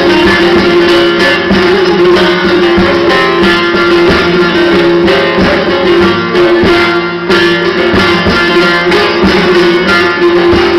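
Music played on a plucked string instrument, with one note sounding steadily under the melody.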